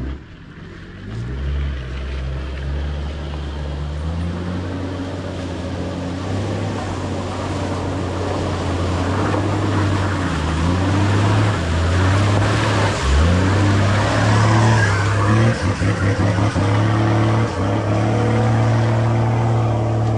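A car engine pulling away and accelerating, its pitch rising and dropping back several times as it works through the gears. A short thump comes right at the start.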